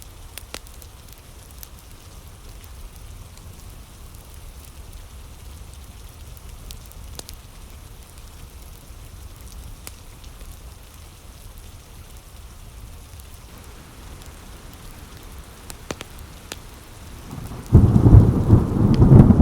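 Steady rain with scattered sharp ticks, then about eighteen seconds in a loud, deep thunderclap breaks out and rumbles on.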